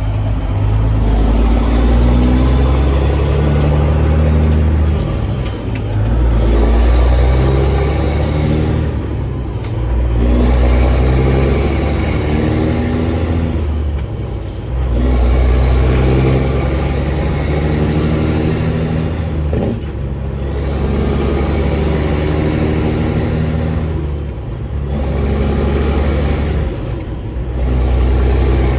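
Peterbilt semi truck's diesel engine pulling under load through the gears: it runs hard in stretches of about four to five seconds, dropping briefly at each shift, with a faint high whistle that rises and falls in each stretch.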